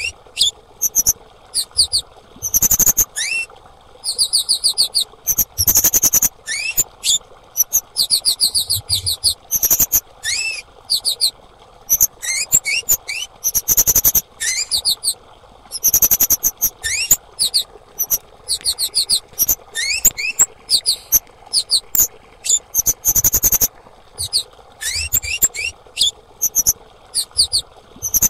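Female kemade bird calling: bursts of quick, sharp, high chirps, some rising at the end, repeated over and over with short gaps, over a steady background hiss. This is the female call used to prompt other kemade birds to sing.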